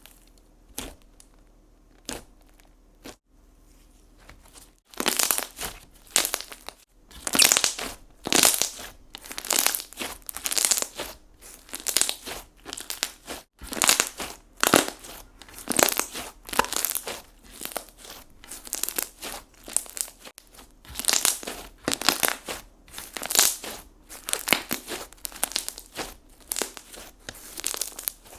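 Slime being squeezed and worked by hand, giving crackly, crinkly pops in repeated bursts about one or two a second. They start about five seconds in, after a few faint clicks.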